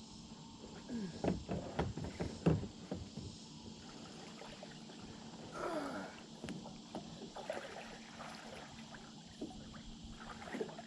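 Faint clicks and light knocks of gear being handled aboard a kayak, over a soft wash of water.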